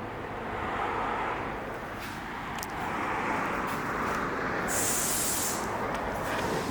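Steady car noise, a low even rumble and hiss that swells slowly, with a short burst of high hiss about five seconds in.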